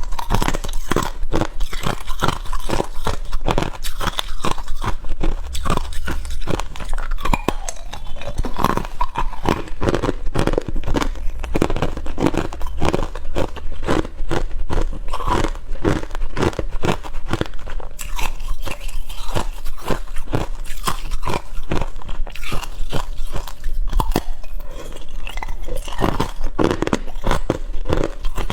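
A person biting and chewing hard ice close to the microphone: rapid, loud, crisp crunches, several a second.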